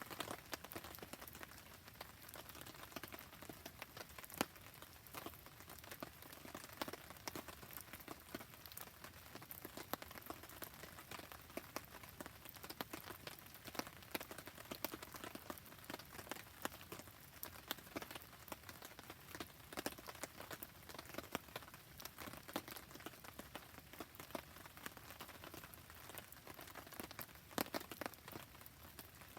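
Steady rain with a crackling wood campfire: an even hiss dotted with many sharp, irregular pops and ticks.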